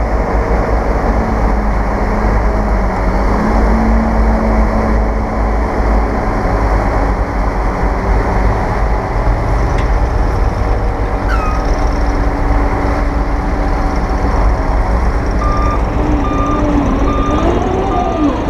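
Heavy diesel earthmoving machinery, bulldozers and dump trucks, running with a loud, steady rumble. Near the end a reversing alarm starts beeping about one and a half times a second as a machine backs up.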